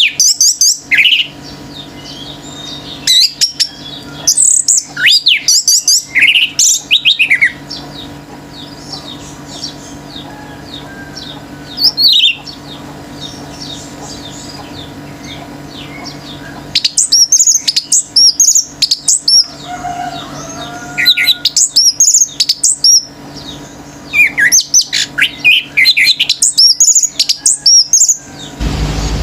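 Orange-headed thrush singing in loud bouts of rapid, varied high phrases with short pauses between, over a steady low hum.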